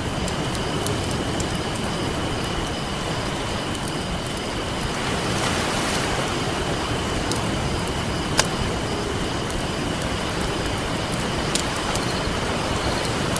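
Campfire crackling with a few sharp pops over a steady wash of ocean surf, a wave swelling about halfway through.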